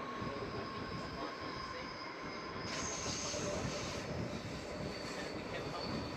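Bernese Oberland Railway narrow-gauge train running, heard from on board: steady wheel-and-track noise with a thin, high wheel squeal that grows louder about three seconds in and eases a second later.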